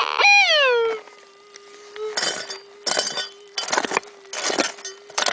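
A loud wailing tone that falls in pitch dies away about a second in. It is followed by five rough strikes of a digging pick into stony ground, about one every 0.7 s, over the steady hum of a metal detector's threshold tone.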